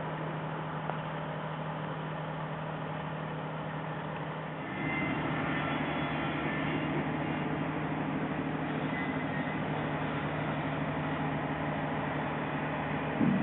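Machinery running with a steady hum, growing louder about five seconds in.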